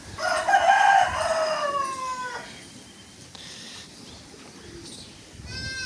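A rooster crows once, loudly, a call of about two seconds that falls in pitch at the end. A short, fainter animal call follows near the end.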